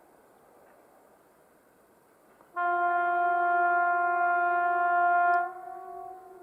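Horn of a TEM18D diesel locomotive sounding one long blast of about three seconds: a single steady tone that starts about two and a half seconds in, cuts off sharply and echoes briefly as it fades.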